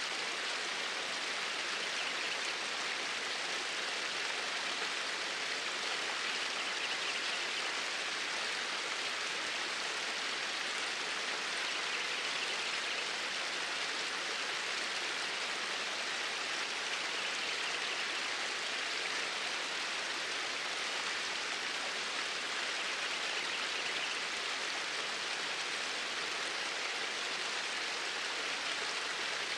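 Flowing water, a steady even rush with no change in level.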